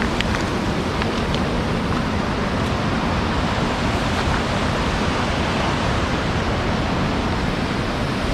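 Waterfall water rushing over rocks in a steady, unbroken wash.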